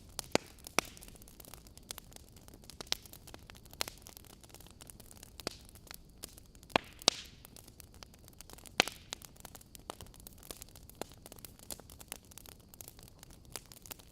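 Wood fire crackling: irregular sharp pops and snaps from burning logs, a handful of them louder, over a faint steady hiss.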